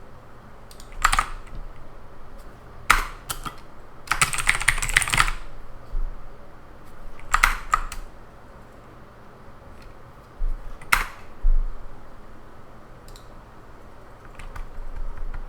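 Computer keyboard being typed on in short, scattered bursts of key clicks, with a quick run of keystrokes about four seconds in.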